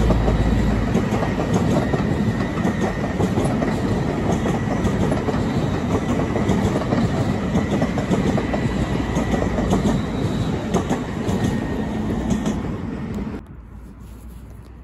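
A train running through, a steady heavy rumble with wheels clicking over the rail joints; the sound drops away abruptly about thirteen seconds in.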